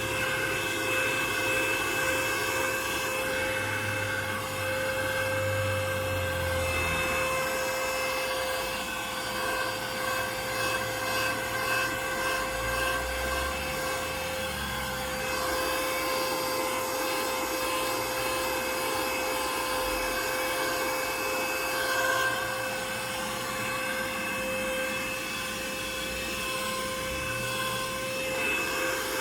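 Vacuum cleaner running steadily with a constant motor whine while it cleans a car's interior, the low end of the sound shifting now and then as the nozzle moves.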